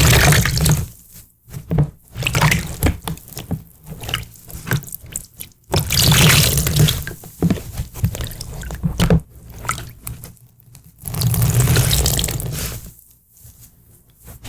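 Water splashing and pouring in irregular bursts of one to two seconds, with drips and small splashes between them.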